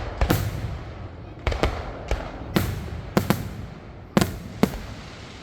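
Aerial fireworks bursting overhead: a quick, uneven string of about nine sharp booms, some in close pairs, each trailing off in a brief rumble.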